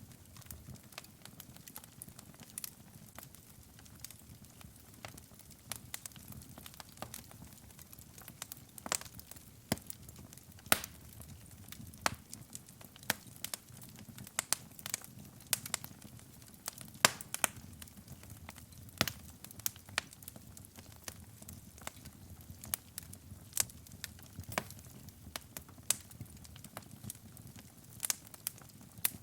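Wood fire in a fireplace burning with a soft low rumble and irregular crackles and sharp pops.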